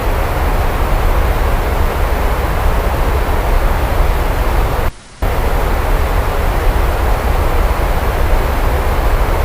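Steady, loud rain noise with a deep low rumble underneath. It cuts out briefly for about a third of a second about five seconds in, then comes back unchanged.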